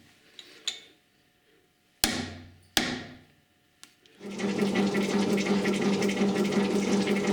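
Two sharp metal clanks that ring briefly, then about four seconds in a metal shaper is switched on and runs steadily with a loud hum and a busy mechanical rattle.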